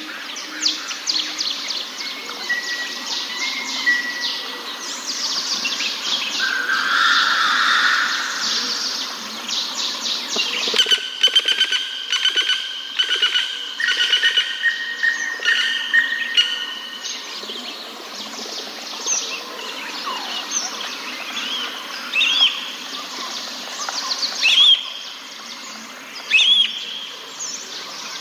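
Several forest birds chirping, trilling and whistling at once, with fast repeated notes and short rising calls over a steady background hum of the forest.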